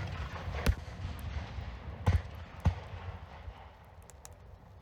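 Fireworks shells bursting overhead: three sharp bangs that ring on, one under a second in, one at about two seconds and one soon after, over a low rumble, then a few faint small cracks near the end.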